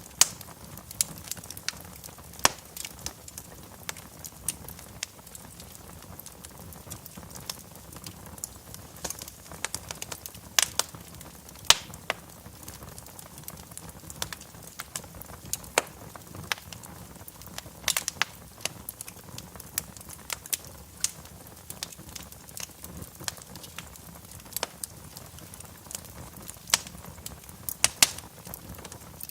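Fire burning in a fireplace, crackling with irregular sharp pops over a low, steady rush of flame.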